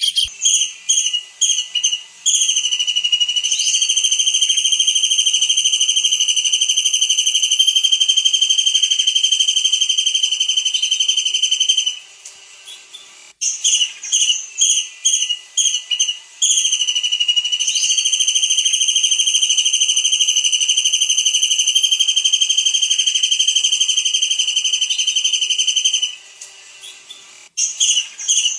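Kingfisher (tengkek udang) calling: a run of short, high whistled notes, then a long, steady high trill lasting about ten seconds. The same pattern comes round again, with short notes once more near the end.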